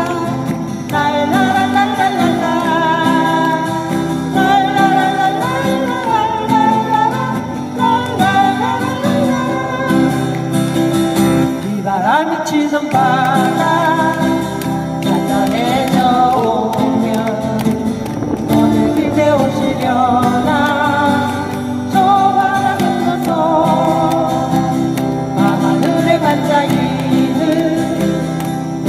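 A voice singing a melody over strummed acoustic guitar, steady and continuous.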